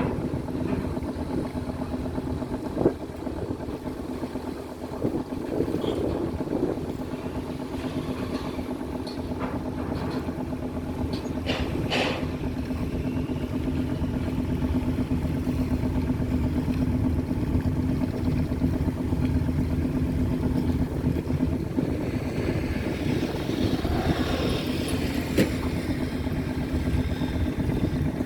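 Boat engine running steadily, an even drone that holds one pitch, with a few sharp clicks and knocks, one about three seconds in and another about twelve seconds in.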